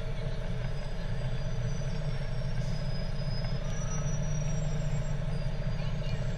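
Fire truck engine running steadily as a low, pulsing rumble, with a few faint high-pitched squeals over it.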